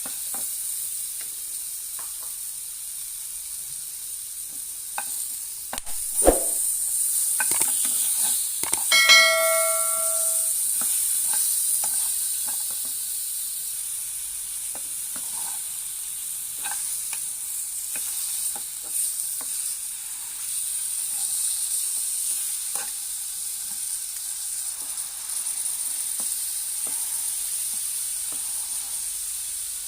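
Honey-glazed ribs sizzling on a hot pan, with frequent small scrapes and taps of a utensil. About nine seconds in, a metal clang rings out for about a second and a half.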